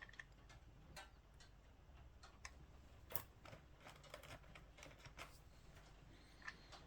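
Faint, scattered clicks and light taps of a small screwdriver and its bits being handled and tried on a camera body's screws, about six or seven in all, the sharpest a little past three seconds in, over a low steady hum.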